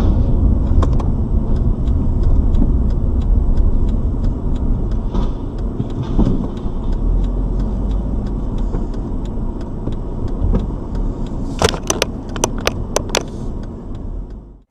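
Car driving, its low road and engine rumble heard from inside the cabin. Near the end comes a quick run of about six sharp knocks or clicks, and then the sound cuts off suddenly.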